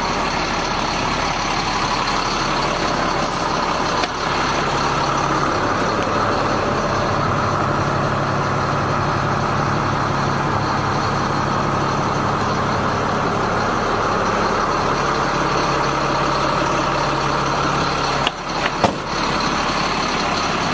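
Caterpillar C7 diesel engine of a Freightliner M2 truck idling steadily, with a short knock about four seconds in and two more close together near the end.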